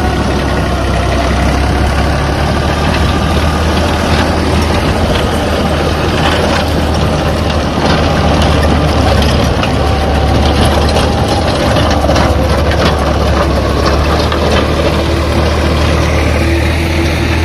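Tractor engine running steadily with a deep, even hum, with no change in speed.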